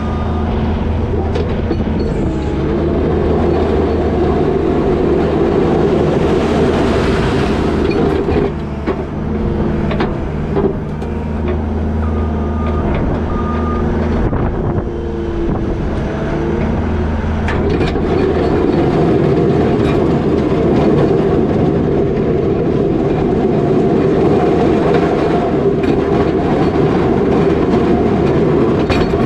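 New Holland L220 skid steer's diesel engine running hard while it works a box plow through wet snow, with clanking and knocking from the machine and plow. The engine eases off around the middle and comes back up to full load a few seconds later.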